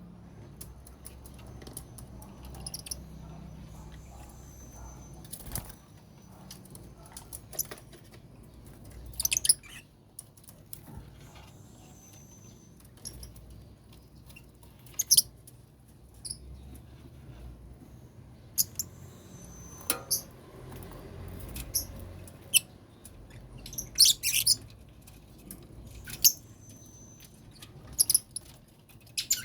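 Lovebirds chirping: short, sharp, high-pitched squeaks and chirps coming irregularly throughout, with a few brief held whistly notes.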